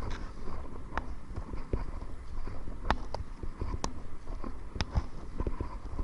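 Kayak paddling: irregular sharp knocks and splashes as the paddle and water strike the kayak's hull, over a steady low rumble of wind on the microphone.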